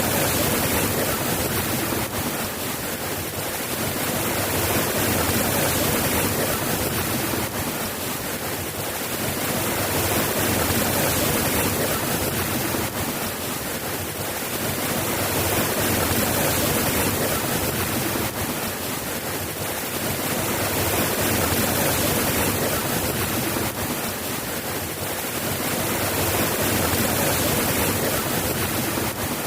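Steady heavy rainfall, a dense even hiss that swells and eases gently every several seconds.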